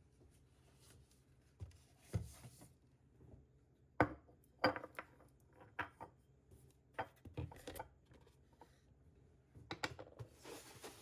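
Irregular light knocks, clicks and rubs of small objects being handled, the sharpest knock about four seconds in, with a soft rustle near the end.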